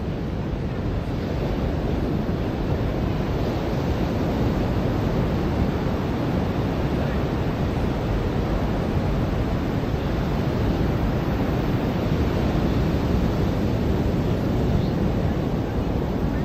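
Ocean surf washing onto a beach, a steady rush of noise with no distinct breaks.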